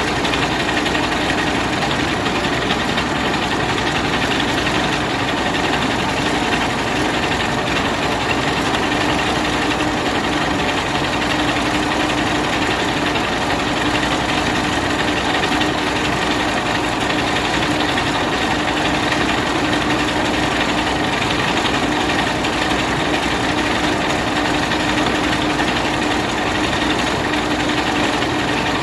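Rice milling machine running steadily while milling paddy: a dense, even mechanical noise with a steady hum under it.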